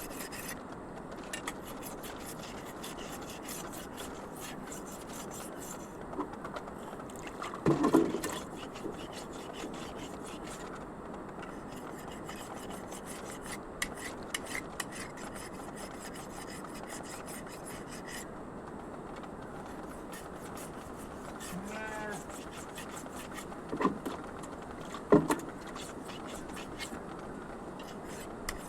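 Steady background hiss with scattered short clicks and knocks, and a few brief farm-animal calls, the clearest about three-quarters of the way through.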